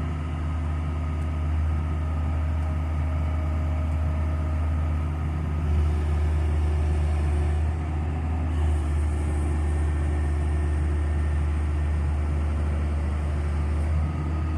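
A large vehicle engine running steadily with a low, even hum.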